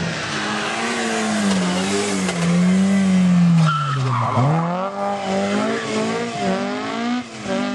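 Rally car engine revving up and down through gear changes, dropping to a low pitch about four seconds in as it brakes into a tight corner, then revving hard again as it accelerates out.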